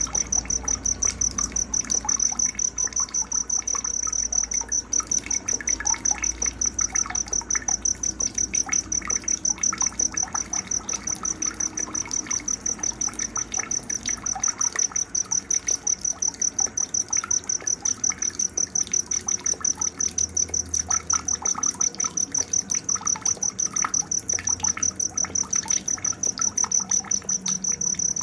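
Night nature ambience: a cricket chirping in a high, steady, evenly pulsed trill, with faint bird chirps scattered underneath.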